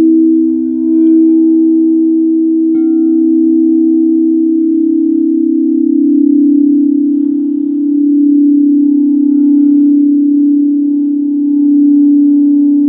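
Singing bowls sounding in long sustained tones that slowly pulse and beat against each other. A light strike about three seconds in adds a higher ringing tone over the hum.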